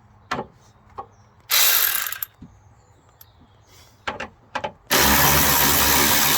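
Handling clicks and knocks, a short burst of a power drill about a second and a half in, then the drill running steadily from about five seconds in.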